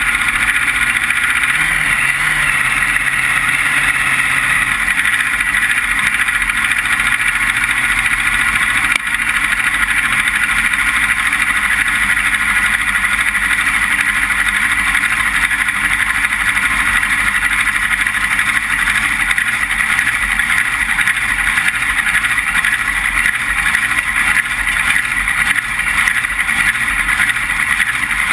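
Front-engine dragster's engine running steadily, heard from a camera mounted on the car.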